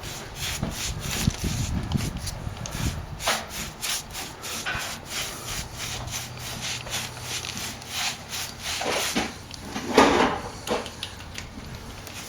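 Paintbrush brushing paint onto a sand-textured plaster wall: a run of irregular, scratchy strokes.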